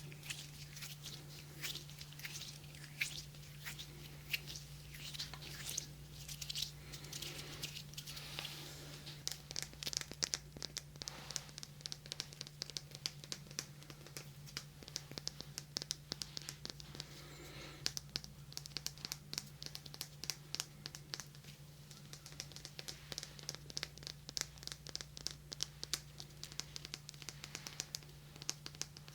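Close-miked fast tapping and scratching by fingers and nails, for binaural ASMR: a dense, crackly rustle of quick ticks over a steady low electrical hum.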